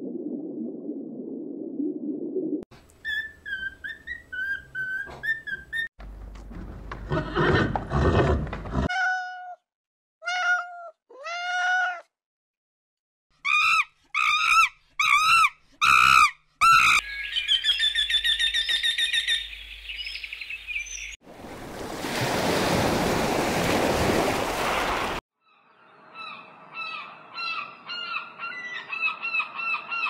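A run of short wildlife sound clips cut one after another: several different birds chirping and calling in quick, repeated, pitch-bending notes, with a few seconds of steady rushing noise about three quarters of the way through.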